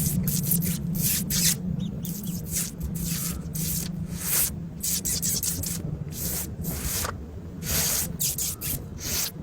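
Irregular short scratchy rustles and scrapes, several a second, over a steady low hum.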